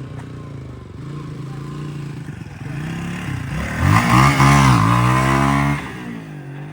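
Hawk 250 dual-sport motorcycle's single-cylinder engine under throttle, its pitch rising and falling, with a louder, higher rev from about four seconds in that drops back just before six seconds.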